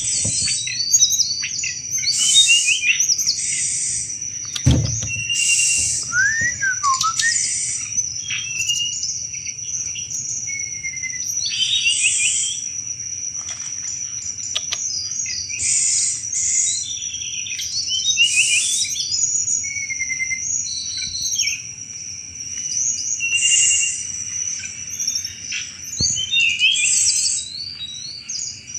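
Tledekan gunung songbird singing its rapid chattering 'cetrekan' song: repeated bursts of quick, high chirps and trills every second or two. A steady high whine runs underneath throughout.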